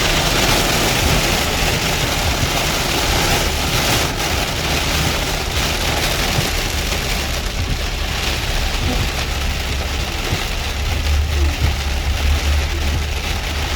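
Heavy rain falling in a steady hiss, over a continuous low vehicle rumble.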